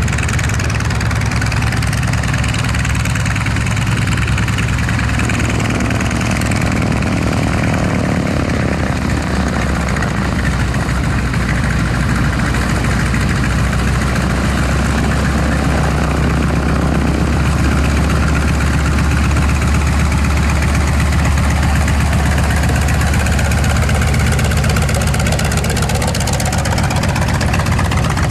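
Loud, steady drone of an aircraft engine, with its pitch shifting slowly now and then.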